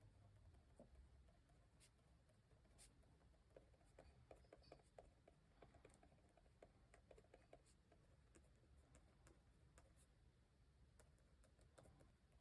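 Faint small ticks and scratches of paper and stationery being handled on a desk, busiest in the middle.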